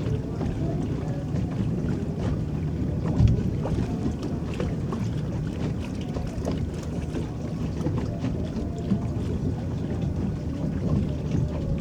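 Water churning and lapping around a small electric boat under way: a steady low rumble with scattered light splashes, and one louder thump about three seconds in.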